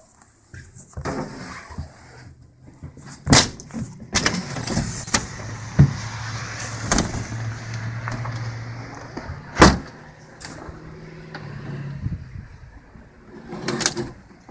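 Sharp knocks and latch clicks, as of a door being opened and shut, four times over the span. A steady low hum runs underneath for most of the middle.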